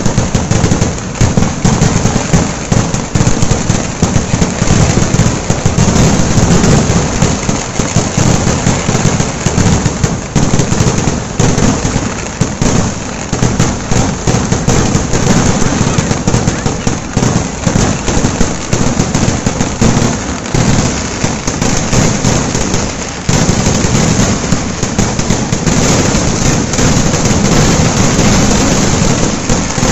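Fireworks display going off in a dense, continuous barrage: rapid bangs and crackling so close together that they run into one unbroken noise, with heavier booms underneath.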